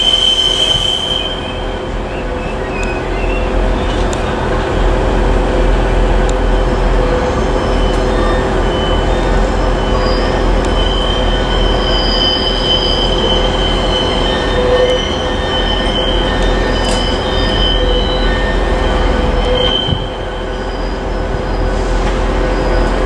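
Passenger train moving slowly through a station, its wheels squealing on the rails over a steady rumble of running noise; the high-pitched squeals come and go repeatedly.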